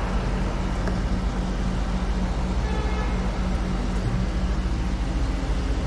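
A freshly top-overhauled 5.7 V8 engine idling steadily, with an even low hum.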